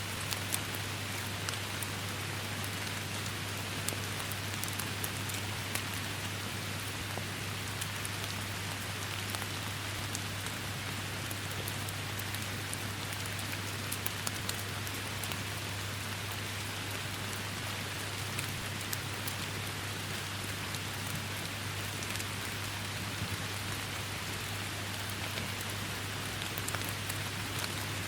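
Steady downpour of rain: a dense, even hiss scattered with sharper ticks of individual drops, over a steady low hum.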